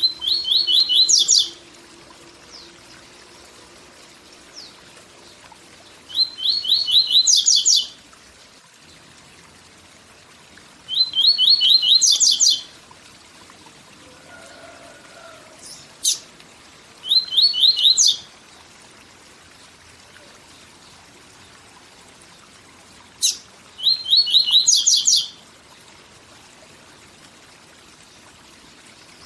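A papa-capim seedeater singing its 'tui tui zel zel' song five times, with pauses of a few seconds between. Each phrase is a quick row of repeated notes that jumps to a higher, faster row. A steady waterfall rush runs underneath.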